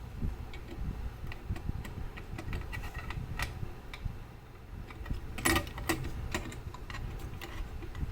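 Irregular small clicks and taps from work on a grandfather clock's movement. The loudest cluster comes about five and a half seconds in, over a low handling rumble.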